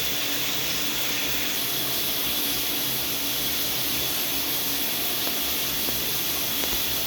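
Shower water running steadily, a constant spray hiss in a small tiled shower room.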